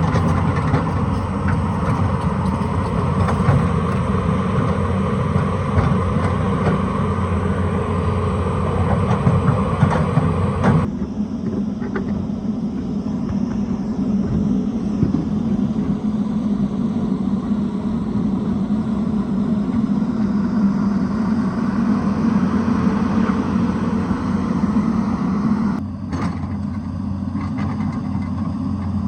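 Excavator's diesel engine running steadily at work. About a third of the way in, and again near the end, the sound abruptly turns duller as the higher sounds drop away, leaving mainly the low engine hum.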